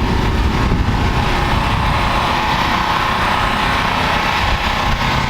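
An engine running steadily and loudly, with no change in pace.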